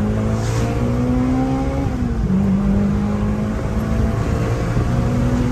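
Honda Integra Type R (DC2) four-cylinder engine heard from inside the cabin, rising in revs under acceleration, dropping in pitch on a gear change about two seconds in, then running fairly steady.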